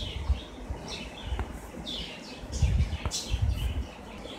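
Small birds chirping in the background: a series of short, high chirps, busiest about two to three seconds in, over a low uneven rumble.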